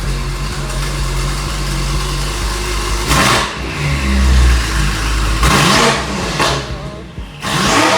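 BMW F90 M5's twin-turbo V8 exhaust idling steadily, then revved in three short blips, about three seconds in, about five and a half seconds in, and near the end.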